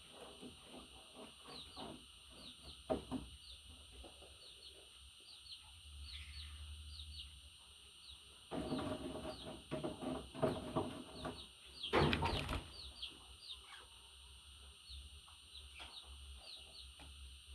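Budgerigars chirping and chattering: a steady stream of short, high, falling chirps, with a louder burst of noisier chatter about twelve seconds in.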